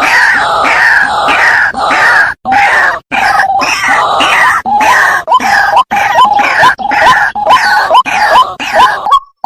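Waterhen calling: a loud, harsh run of quickly repeated calls, about two a second, the notes becoming shorter and more separated near the end.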